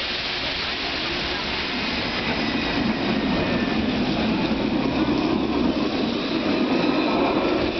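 Paris T3 tram running through the station, its rumble growing louder from about two and a half seconds in.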